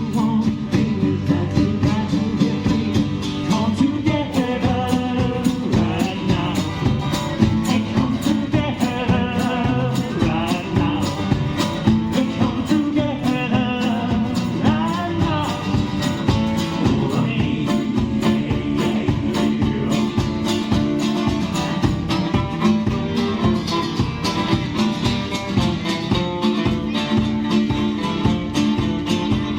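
A live band playing a country-style song: guitar over a steady beat, with a singer.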